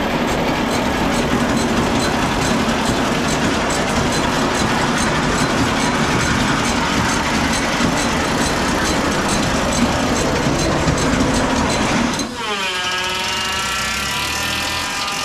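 Tractor-driven silage feed cart running, its beaters working the silage, with a steady mechanical din and fine rapid ticking. About 12 seconds in the machinery noise drops away and a long pitched sound takes over, falling briefly before holding steady.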